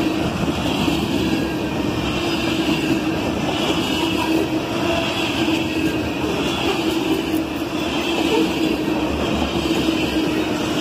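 Norfolk Southern freight train of covered hopper cars rolling past close by: steady rumble and rattle of the cars' wheels on the rails.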